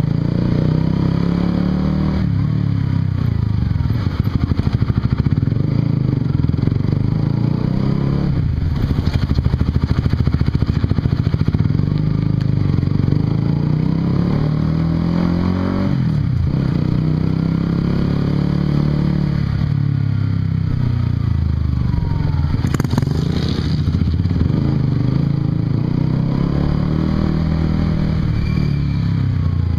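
Honda CBR150R's single-cylinder engine running through an aftermarket Yoshimura exhaust while riding, its revs rising and falling several times.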